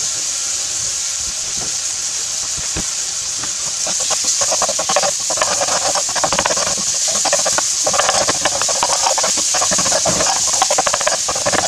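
Seasoned ground beef sizzling steadily in a frying pan. From about four seconds in, a spatula scrapes and stirs through it.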